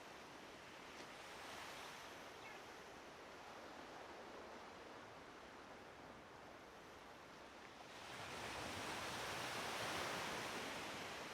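Small waves of a calm sea washing on the shore, a soft steady hiss that swells louder for a few seconds near the end.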